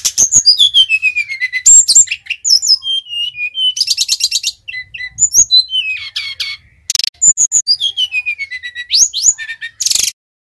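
Sikatan rimba dada coklat (a jungle flycatcher) singing a fast, varied song: falling whistled glides mixed with quick buzzy trills and chatters. It breaks briefly at about seven seconds and stops just before the end.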